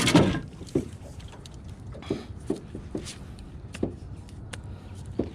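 Scattered knocks and clicks of gear and movement in a small jon boat while a hooked bass is fought, over a steady low background.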